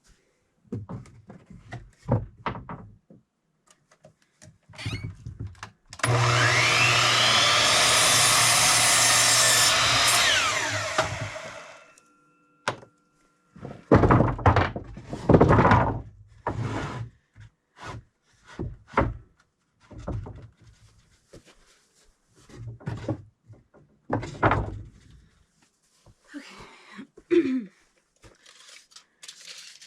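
An electric saw spins up, cuts through a tongue-and-groove board for about five seconds and winds down, with scattered knocks and clatter of wooden boards being handled before and after.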